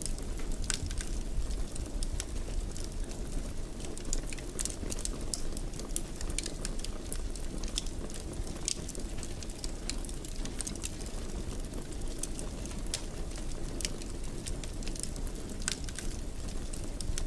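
Fireplace fire crackling, with frequent irregular sharp pops over a steady low rumble of burning.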